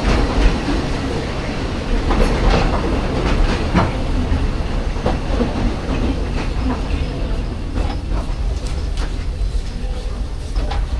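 Walt Disney World Railroad steam train running, heard from aboard. A steady low rumble with irregular clicks and clacks of the wheels on the track.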